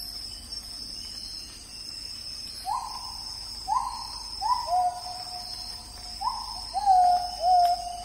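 A bird gives a series of about seven whistled hoots, starting about a third of the way in. Each hoot rises sharply and is then held for about a second, and some overlap. Under them runs a steady, high-pitched insect drone.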